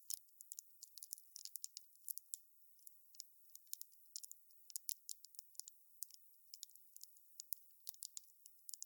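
Wood campfire crackling: a dense, irregular run of sharp, high-pitched crackles and pops from the burning logs over a faint hiss.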